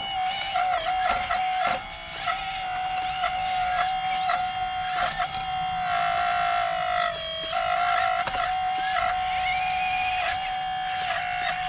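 RC excavator's hydraulic pump whining steadily, its pitch wobbling and briefly dipping about seven seconds in as the load changes.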